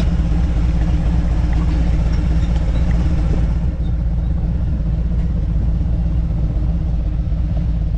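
Harley-Davidson V-twin motorcycle engine running steadily under way, a constant low rumble mixed with road and wind noise; it eases slightly about four seconds in.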